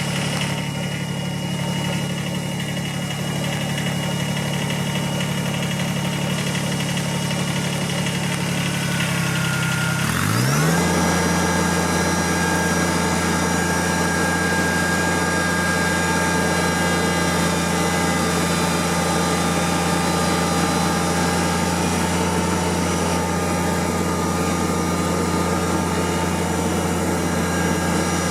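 Kubota tractor's diesel engine running steadily. About ten seconds in, its pitch dips sharply and recovers, then it runs on at a changed, slightly louder note.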